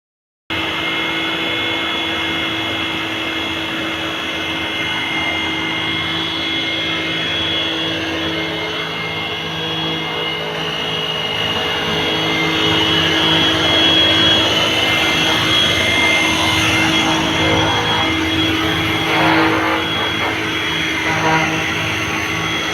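Machinery running steadily: a constant drone with a high whine, a little louder from about halfway through, with a few irregular rattles near the end.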